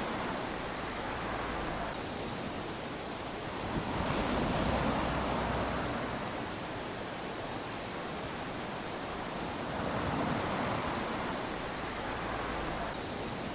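Small waves lapping onto a sandy beach, each wash of surf swelling and then fading, about three times, some five to six seconds apart.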